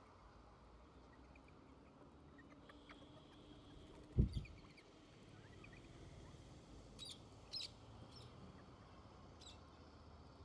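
Wild birds giving a few short, high chirps, sparse and faint, mostly in the second half. A single dull low thump about four seconds in is the loudest sound.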